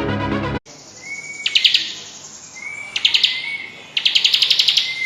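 A ciblek (prinia) singing: three quick phrases, each a thin whistled note running into a fast, high rattling trill. Electronic music plays briefly at the very start and cuts off.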